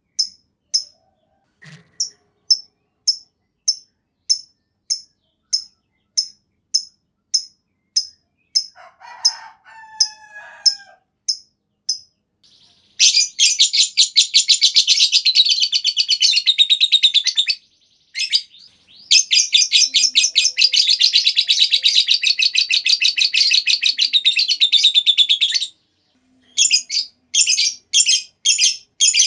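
Lovebird calling: a long series of short, high, evenly spaced chirps, about one and a half a second. Then two long, rapid chattering trills ('ngekek'), about four and six seconds long, followed by quick chirps again.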